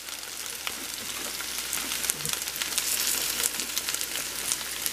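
Corn-meal-coated okra, yellow zucchini and onions pan-frying in a cast iron skillet: a steady sizzle with many small crackles.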